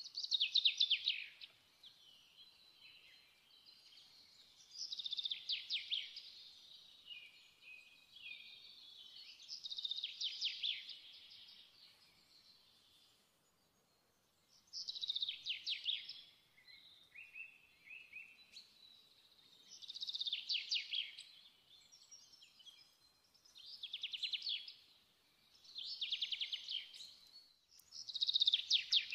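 A songbird singing short trilled phrases, each about a second long, repeated every few seconds.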